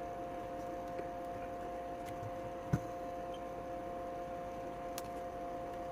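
Steady electrical hum from the bench, with a few faint ticks and one sharp, light click of a tool about halfway through.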